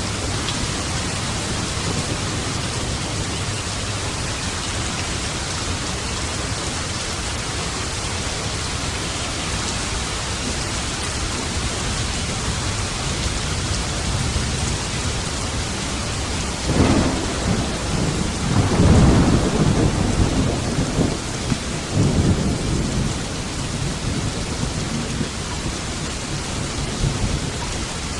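Steady heavy rain falling, with a roll of thunder that starts about two-thirds of the way through, grows loudest a few seconds later and rumbles away.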